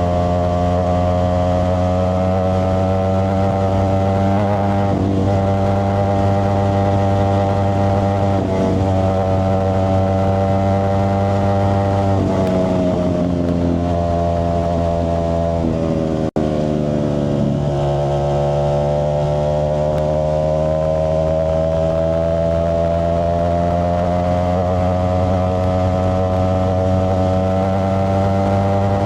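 Ducati Streetfighter V4S's 1103 cc V4 engine running through an aftermarket Zard exhaust, a steady loud note whose pitch sinks a little twice around the middle and then climbs slowly. The sound breaks off for an instant about halfway through.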